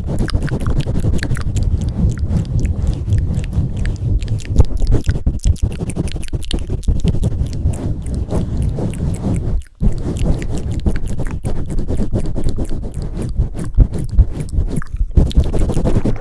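Close-miked ASMR mic pumping and swirling: hands working over the microphone give a continuous low rumble with dense wet crackles and clicks, broken by a brief silence about ten seconds in.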